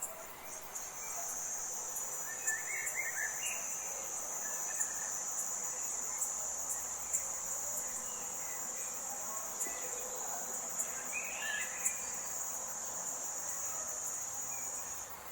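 Forest ambience dominated by a steady, high-pitched insect drone that starts about a second in and stops near the end, with a couple of brief bird calls over it.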